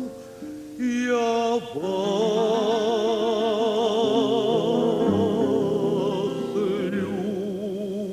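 A contralto voice singing a Russian romance, holding a long note with wide vibrato for about five seconds over a sustained instrumental accompaniment.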